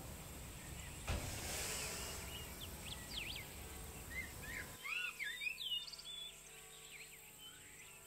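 Small birds chirping and twittering in short rising-and-falling calls, over a faint low outdoor rumble that drops away about halfway through. Faint steady held tones sound in the second half.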